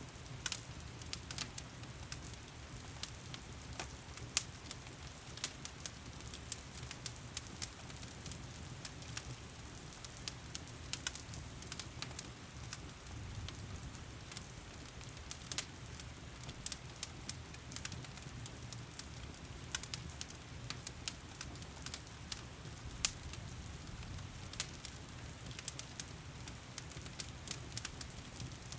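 Wood fire crackling in a fireplace, with frequent irregular sharp pops, over a steady hiss of heavy rain and a low rumble.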